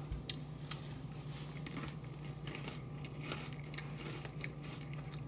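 A few sharp clicks and scattered light crunches of crackers being handled and bitten, over a steady low hum.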